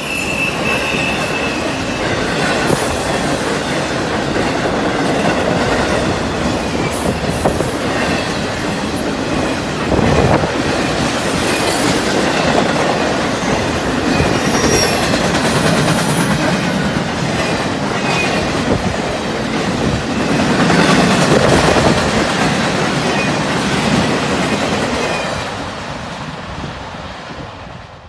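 Intermodal freight train's trailer and container cars rolling past: a steady rumble and rattle of steel wheels on rail, with some clacks and a few faint high wheel squeals. The sound swells twice, then fades out near the end.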